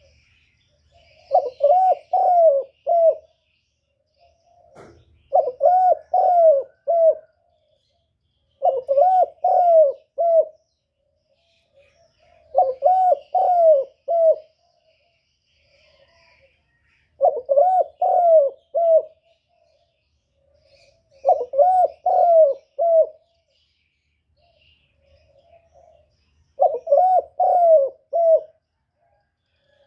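A dove cooing in a repeated phrase of four or five quick coos that rise and fall, given seven times about every four seconds. Faint chirps of small birds sound in the background.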